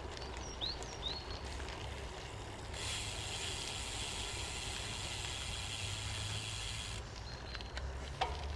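Wind and road noise from a road bike being ridden on a drizzly road: a steady low rumble, with a few short high chirps about half a second to a second and a half in. A steady hiss comes in about three seconds in and stops about four seconds later.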